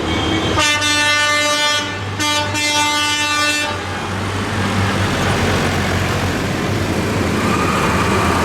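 A vehicle horn blows two long blasts, the second slightly longer, over the steady running of tractor engines in a passing procession.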